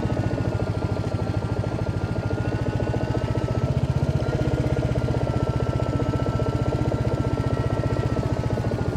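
Single-cylinder engine of a Royal Enfield Hunter 350 motorcycle running steadily at low revs, with an even, fast thud of its firing pulses.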